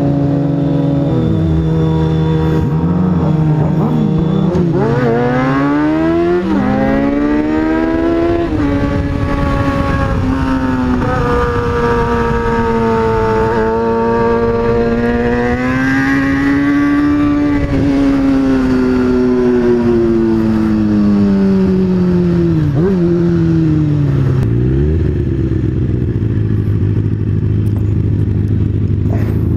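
Kawasaki ZX-6R 636 inline-four sport-bike engine running under way. Its pitch climbs slowly over several seconds, holds high, then falls away about 24 seconds in and settles to a steady low idle.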